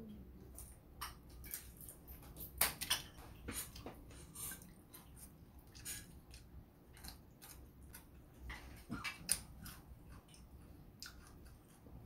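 A person eating close to the microphone: irregular crisp crunches and clicks of chewing and biting.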